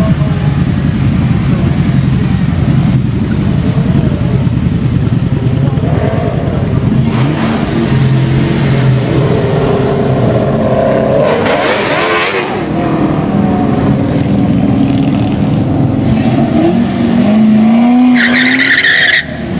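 Loud car engines rumbling and revving as cars drive past, with a brief high-pitched squeal near the end.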